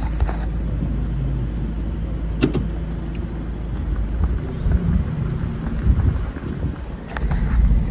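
Car driving, its steady low road and engine rumble heard from inside the cabin, with a couple of faint clicks.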